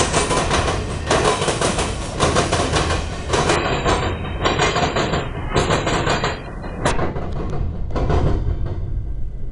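Steel wheels of CSX freight hopper cars rolling past close by, with a run of heavy clattering knocks as the wheels cross the rails of a diamond crossing. The clatter thins out about seven seconds in as the last car rolls away.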